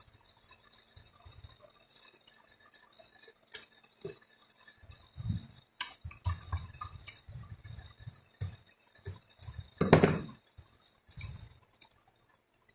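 Irregular small clicks, clinks and low knocks of parts and tools being handled on a cold spark machine during disassembly, with one louder knock about ten seconds in.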